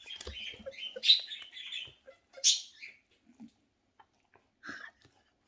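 Cockatiels chirping in short, high calls, with a low bump just after the start and scattered small clicks and rustles; the chirping thins out after about three seconds.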